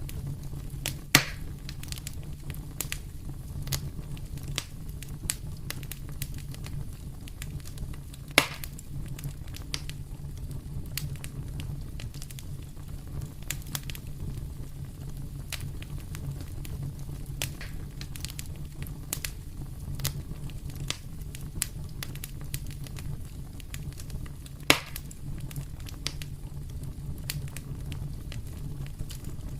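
Fireplace fire crackling, with a steady stream of small ticks and pops over a constant low rumble. Three louder sharp snaps stand out: about a second in, about eight seconds in, and near the end.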